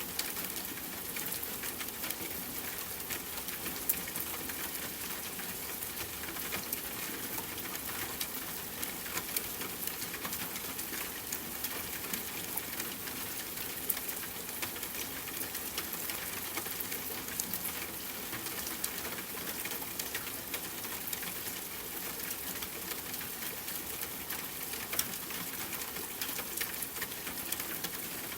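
Steady rain with a campfire crackling: an even hiss of rain broken by frequent small, sharp pops and snaps.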